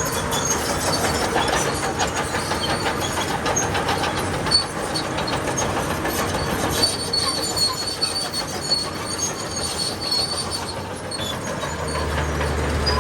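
Crawler bulldozer's steel tracks clanking and squealing as it moves over the fill, with a low steady engine hum coming in near the end.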